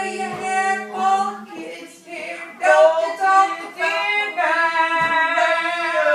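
A woman singing unaccompanied, holding long notes that bend in pitch, with a downward slide at the end.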